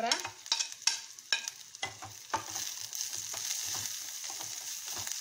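Onions, crushed ginger-garlic and freshly added curry leaves frying in oil in a steel kadai, with a spoon knocking and scraping against the pan as they are stirred. After about two and a half seconds the knocks stop and the sizzle settles into a steady hiss.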